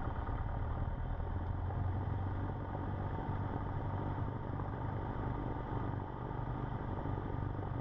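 Cessna 150's Continental O-200 four-cylinder engine running steadily at low power, heard from inside the cockpit.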